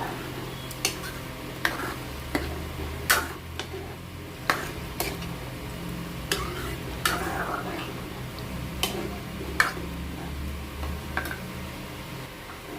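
Spoon stirring potato curry in a cooking pan, clinking sharply against the metal about a dozen times at irregular intervals, over a steady low hum.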